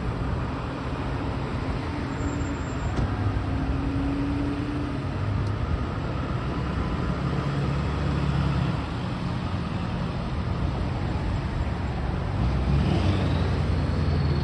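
Road traffic noise: vehicles driving past with a steady low rumble of engines and tyres.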